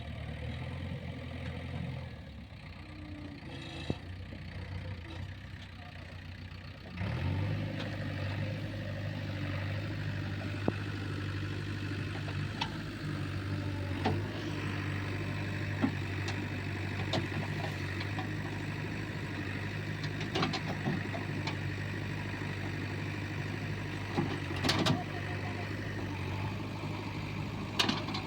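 Diesel engine of heavy machinery running steadily, getting suddenly louder about seven seconds in and holding there, with scattered sharp knocks and clanks over it.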